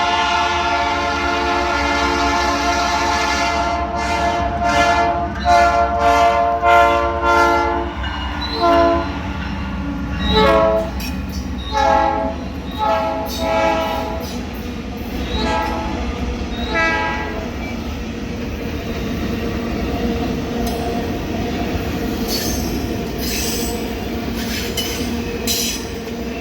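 Norfolk Southern diesel locomotives' air horn sounding: one long chord, then a series of shorter blasts. After that the train runs past with a steady rumble of wheels on rail, and regular clicks of wheels over rail joints near the end.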